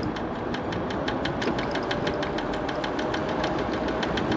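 Rapid, even knocking from the front wheel of a MiniPro Mi716 electric scooter while riding, about seven knocks a second. Under it are wind rumble on the microphone and a faint steady motor whine.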